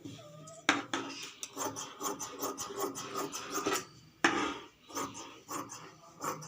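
Cloth being worked by hand at the tailoring table: a quick run of rasping clicks, about five a second, in two stretches with a short break near the middle.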